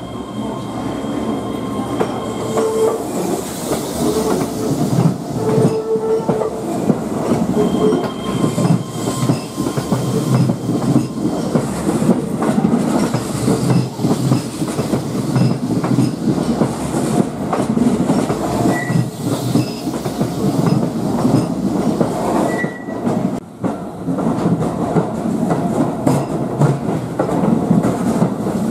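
Keihan 10000-series electric trains running slowly through curved track and points, wheels clattering over joints with a rumble and a flange squeal. Steady whining tones during the first ten seconds, and two short squeaks near the end.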